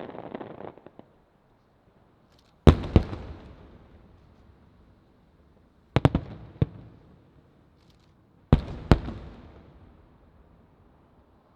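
Aerial firework shells bursting: three double bangs a few seconds apart, each dying away in a long rolling echo, after about a second of dense crackling at the start.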